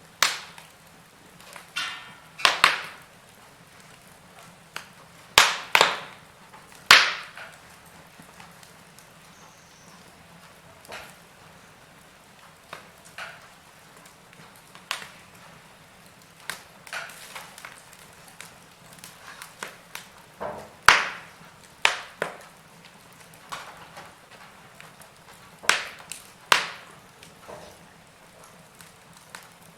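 Wood fire in a fireplace crackling: irregular sharp pops and snaps of burning logs, several loud ones close together in the first seven seconds and again around twenty and twenty-six seconds, over a low steady hiss.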